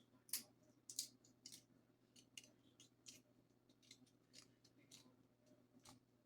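Seafood shell cracking and snapping as it is broken open: about a dozen faint, sharp crackles at irregular intervals, the loudest in the first second and a half.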